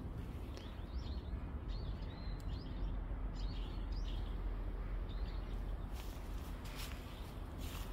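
Small birds chirping, a quick series of short high calls through the first few seconds, over a low steady rumble. A few sharp rustling crackles near the end.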